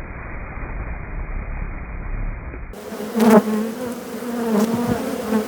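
Honeybees buzzing: a steady, slightly wavering drone from many bees, which comes in clearly about halfway through, with a couple of sharp knocks. Before that there is a muffled low rumble.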